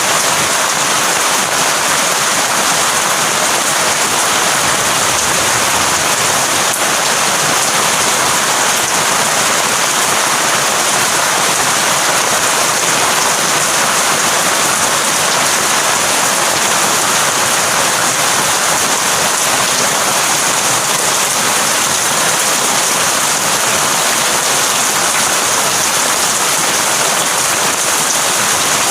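Heavy rain falling steadily on surfaces: a loud, even hiss with no let-up.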